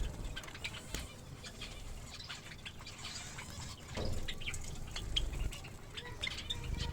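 Pet finches, Java sparrows among them, giving many short chirps, with scattered sharp clicks in between.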